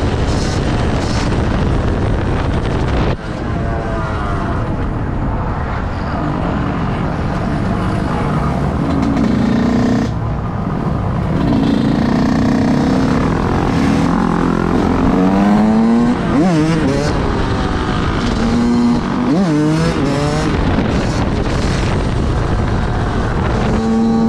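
Several loud vehicle engines running together and revving, their pitch rising and falling quickly again and again, most of all in the second half.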